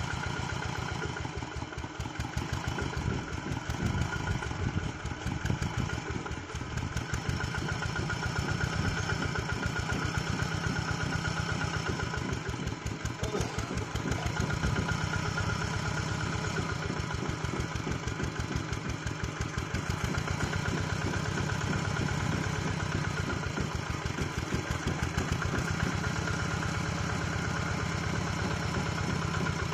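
Two-wheel hand tractor's single-cylinder diesel engine running steadily with an even beat.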